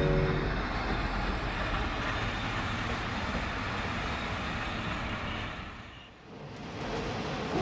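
Diesel railcar pulling into a station: a steady rumble of engine and wheels on the rails, with the tail of a horn note cutting off just after the start. The noise fades out about six seconds in and a new steady noise rises near the end.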